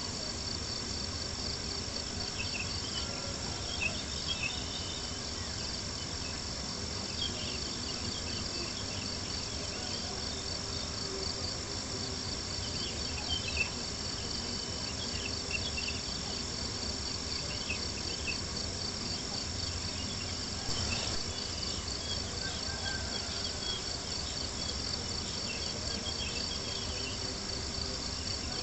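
Crickets chirping in a steady, fast-pulsing chorus, with scattered small pops and crackles from a campfire and a soft, even wash underneath.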